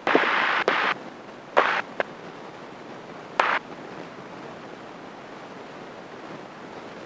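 Cabin noise of a light airplane through the headset intercom: a burst of hiss for about a second, two shorter bursts with clicks, then a faint steady hiss.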